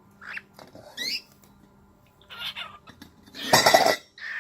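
Cockatiel calling: a few short, upward-gliding whistled chirps, then a loud, harsh screech about three and a half seconds in.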